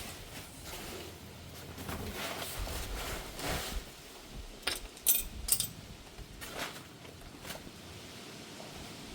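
Metal hand tools clinking and being handled, with rustling, and two sharp metallic clanks about five seconds in.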